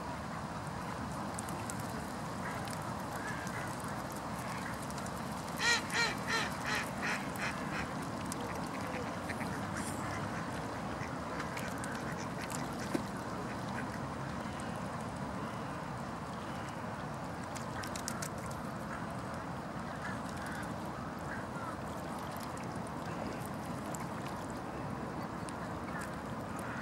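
A duck quacking: a run of about six quacks, each fainter than the last, about six seconds in, over steady background noise.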